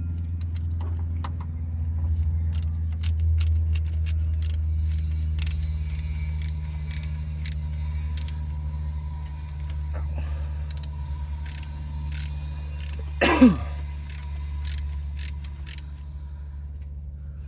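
Hand ratchet clicking in quick runs as 10 mm bolts on a Ford 6.0 Power Stroke diesel's oil pump are snugged up, over a steady low hum. About thirteen seconds in comes a short falling squeak, the loudest sound.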